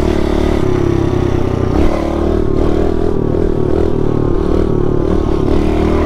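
A small four-stroke single-cylinder pit bike engine running steadily while being ridden, its pitch shifting a little with the throttle.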